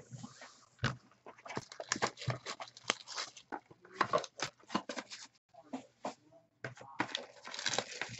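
Dense crinkling, crackling and clicking of trading-card packaging being handled and torn open, with a brief pause about two-thirds of the way in.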